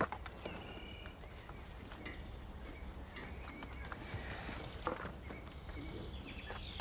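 Birds chirping in short sliding notes over a low steady hum, with a sharp knock about five seconds in.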